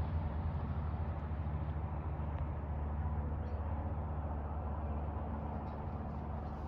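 Low, steady engine rumble of a loud passing road vehicle, fading slowly as it draws away.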